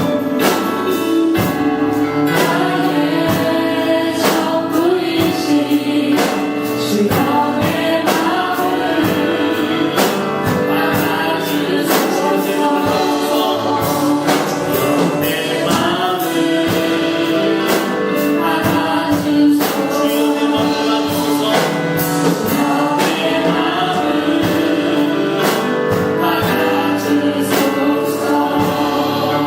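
Contemporary Christian worship song: a group of singers with band accompaniment and a steady drum beat.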